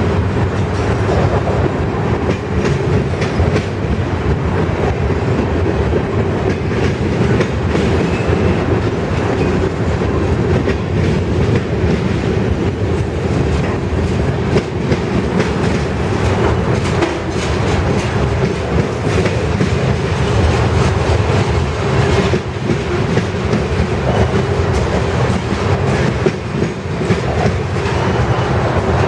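Freight train cars rolling past in a steady rumble, wheels clacking over rail joints again and again.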